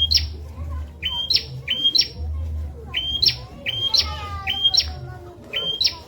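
Prenjak, a small prinia, calling in sharp repeated chirps, each a short flat note that jumps abruptly higher, mostly given in quick pairs every second or so.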